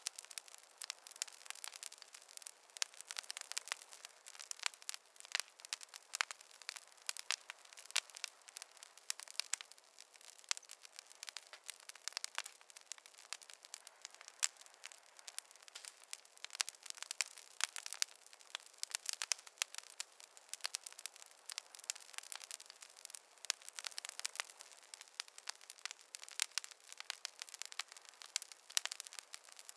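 Wood fire crackling: a dense, irregular stream of small pops and snaps over a faint hiss.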